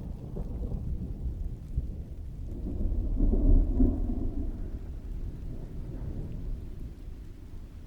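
Rolling thunder rumbling over steady rain. The deep rumble swells about three seconds in, peaks, then dies away while the rain carries on.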